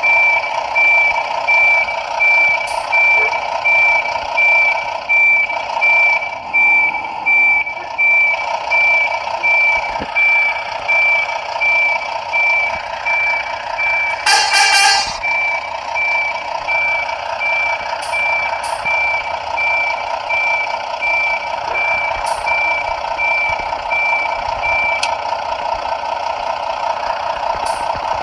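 Reversing alarm of a Scania-chassis Busscar Vissta Buss 400 coach: a high beep repeating about twice a second over a lower pulsing tone, the beeping stopping about three seconds before the end. A short loud burst of sound cuts across it about halfway through.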